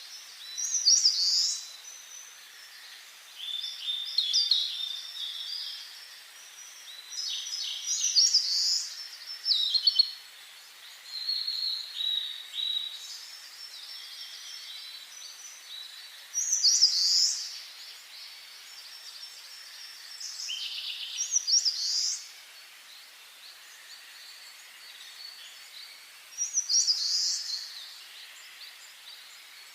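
Songbirds singing in the forest: short, varied, high-pitched song phrases of a second or two, repeating every few seconds with pauses between, over a faint steady hiss.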